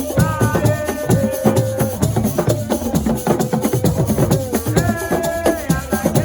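Assiko music: dense, fast percussion with rattling, shaker-like strokes, and a melodic line of held, gliding notes over it just after the start and again about five seconds in.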